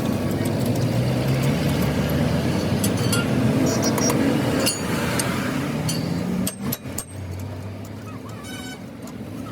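A motor vehicle's engine running, with voices mixed in; the sound drops off sharply about six and a half seconds in.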